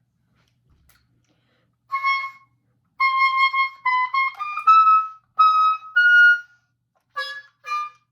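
Oboe playing a phrase in its upper register, starting about two seconds in: one held note, then a run of notes climbing step by step, and two short notes near the end.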